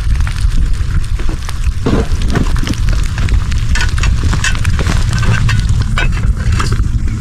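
Fire crackling and popping in irregular snaps, over a loud, steady low rumble of wind on the microphone.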